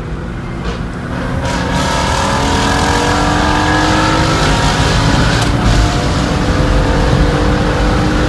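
Car engine at full throttle heard from inside the cabin, picking up about a second in and then climbing slowly and steadily in pitch as the car accelerates hard.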